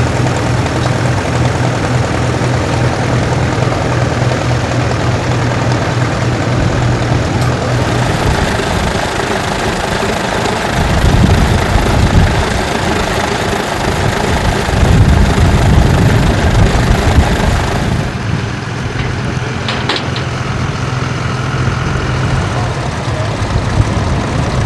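Tractor engine running steadily, with spells of louder low rumble about eleven and fifteen seconds in.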